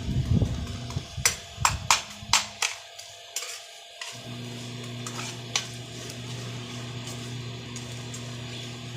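Sharp, irregular clicks and taps from a pan of whole spices frying in oil, coming several a second and thinning out after about four seconds. From about four seconds in, a steady low hum runs underneath.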